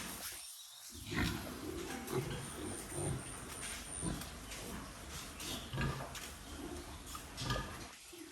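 Pigs grunting in their pens, short calls following one another irregularly.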